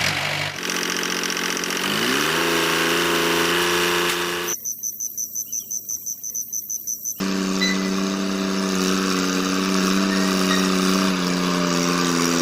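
A small tractor motor running steadily, rising in pitch about two seconds in as it picks up speed. It breaks off abruptly for a few seconds of a fast-pulsing high tone, then resumes at a steady pitch.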